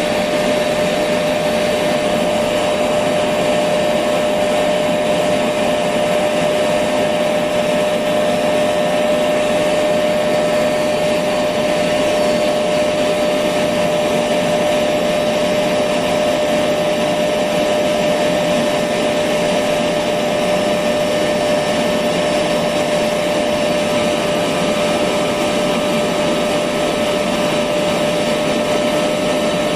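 Electric vacuum cleaner running continuously at a steady speed, a constant whine over even motor noise.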